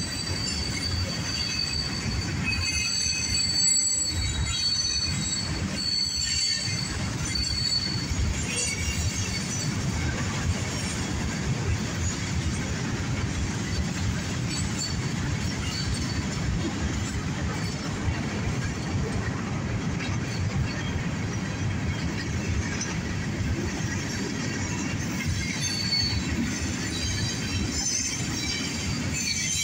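Cars of a CSX mixed freight train rolling past: a steady rumble of steel wheels on rail, with high-pitched wheel squeal that is strongest in the first several seconds and again near the end.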